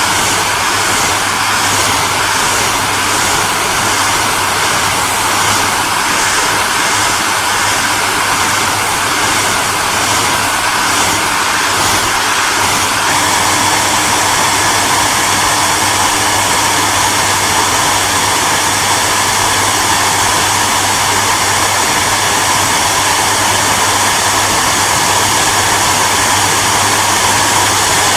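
Hair dryer running steadily, a loud even rush of fan and airflow noise with a low hum under it. About halfway through, a faint pulsing in the high hiss gives way to a smoother tone.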